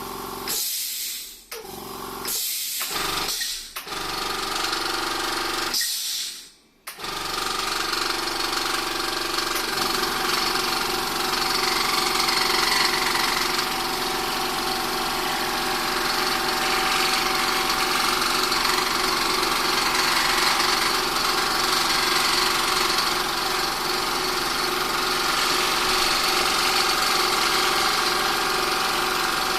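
Four-cylinder electric air compressor running: a few short bursts with brief gaps in the first seven seconds, then it runs continuously with a rapid, even pulsing. It is leaking compression, traced to a misaligned connecting rod whose piston has scored the cylinder.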